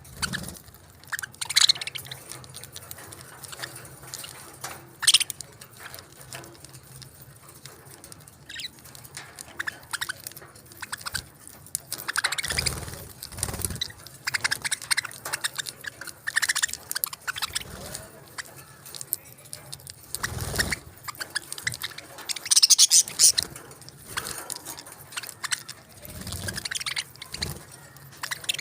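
Small pet parrots chirping now and then, with scattered short clicks and scrapes among them.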